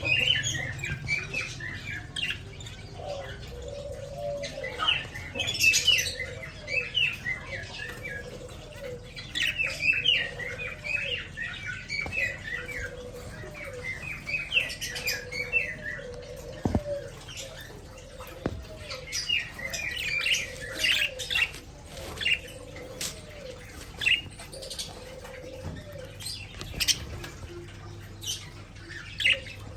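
Pet budgerigars chattering in quick chirping bouts, with a lower call repeating about once a second and scattered sharp clicks.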